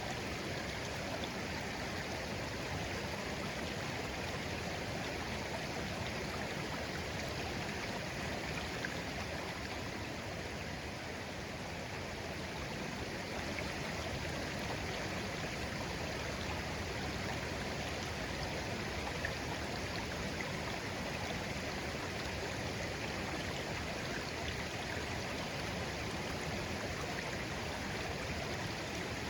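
Small clear stream babbling steadily, an even wash of running water.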